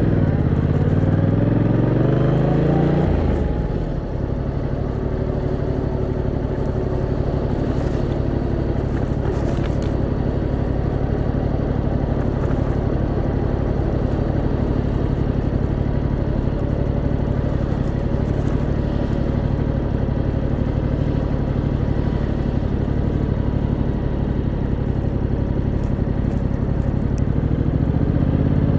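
Yamaha MT-07's 689cc parallel-twin engine revving up briefly, then dropping back to a steady idle for about twenty seconds as the bike sits in traffic. Near the end the revs rise again as it pulls away.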